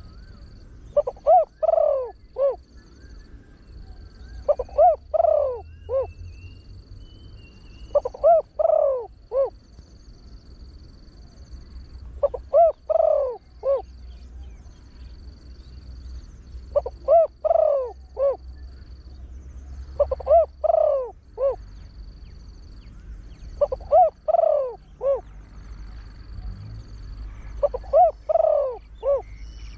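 Spotted dove, a trained male with a deep voice, giving its cooing crow. It repeats a phrase of three or four coos about every four seconds.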